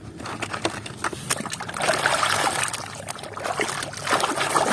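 Water sloshing and trickling as muddy plastic toys are washed by hand, with short knocks of the toys against each other.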